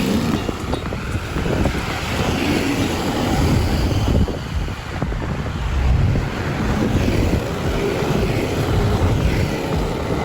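Wind buffeting the microphone of a moving bicycle's camera: a steady rushing noise with uneven low gusts.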